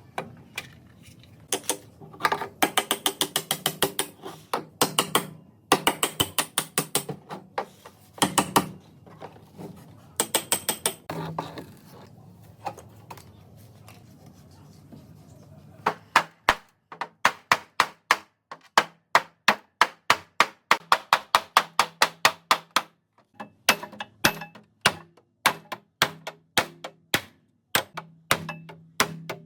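Metal hand-tool work on a car: bursts of rapid ratchet-like clicking, then about halfway through a steady series of sharp strikes about three a second.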